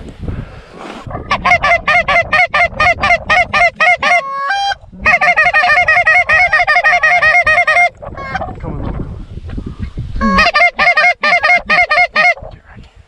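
Canada goose calls blown in three fast runs of clucks and honks, about five notes a second, with a short drawn-out note between the first two runs: calling to circling geese to bring them in. Low wind rumble underneath.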